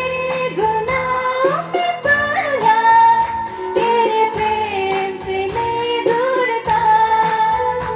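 A woman singing a Christian worship song in a local language, held notes gliding between pitches, over instrumental accompaniment with a steady beat.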